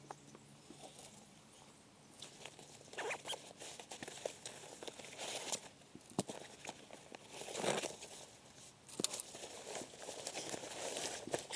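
Irregular rustling and crinkling, coming in bursts, with a few sharp snaps about six seconds in and again around nine seconds.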